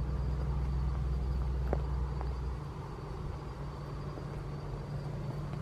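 Steady low rumble of distant traffic, the deepest part of it stopping about two and a half seconds in, with a faint thin high tone throughout and one faint tick near two seconds.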